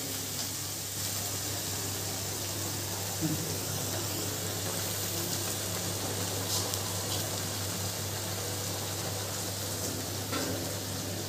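Curry masala, loosened with a little water, sizzling steadily in a kadhai on the stove, with a couple of light spoon knocks against the pan.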